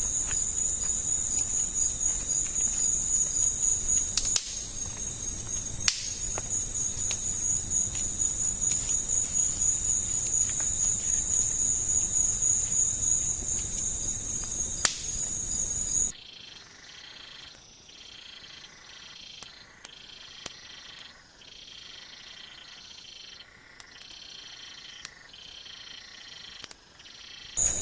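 Steady high-pitched insect chorus of the rainforest, with a few sharp snaps. About sixteen seconds in it cuts off abruptly to a much quieter stretch of repeating pulsed animal calls.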